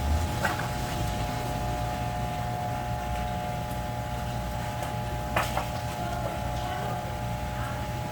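A steady machine hum with two short knocks, one just after the start and one about five seconds in.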